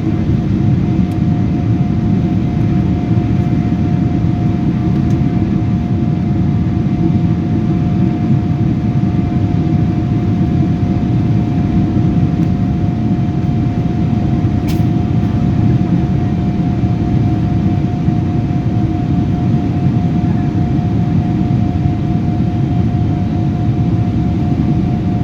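Jet airliner cabin noise in flight: a steady low rumble of engines and airflow heard from inside the passenger cabin, with a constant mid-pitched hum over it.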